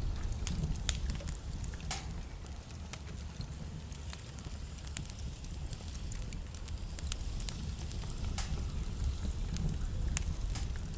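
Wood fire burning in a fireplace: a steady low rumble of flame with irregular crackles and sharp pops from the burning logs.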